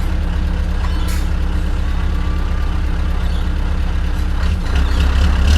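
Scania R580's V8 diesel engine, straight-piped with an 8-inch exhaust, running with a steady deep drone that grows louder about four and a half seconds in.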